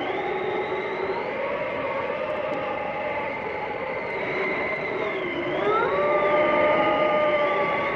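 Blizzard wind howling and whistling over a steady rush of noise, with several whistling tones that glide up and down; one dips and then rises sharply about five and a half seconds in, and the gust grows louder near the end.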